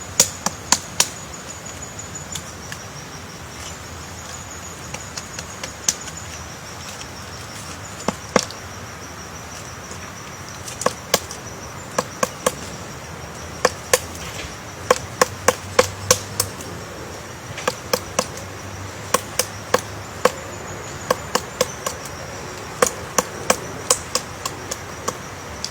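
Sharp knocks or chops coming in irregular clusters of two to five, over a steady high-pitched whine or trill that breaks off now and then.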